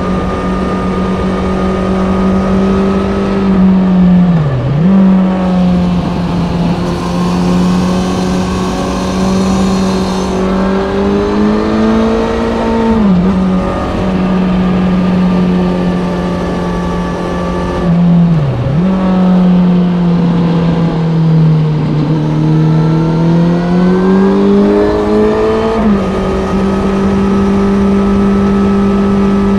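Kawasaki Z900's inline-four engine through an Ixil SX1 full exhaust, running at steady revs under way. Its pitch briefly dips and recovers about 4 s in and again about 18 s in, then falls slowly and climbs back between about 19 and 26 s.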